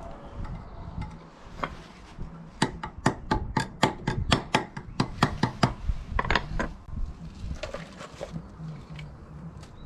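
A quick, even run of about a dozen sharp clicks or taps over some three seconds, then a short cluster of clicks: hand work on the fixings while the wooden pergola is anchored to the patio floor.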